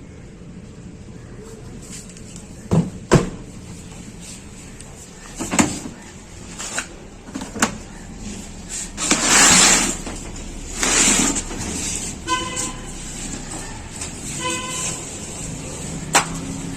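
Handling noises: a series of sharp knocks, two longer rustling or scraping bursts in the middle, and two short squeaks near the end.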